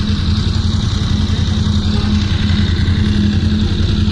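Motorcycle engine idling steadily, with an even low hum that does not rise or fall.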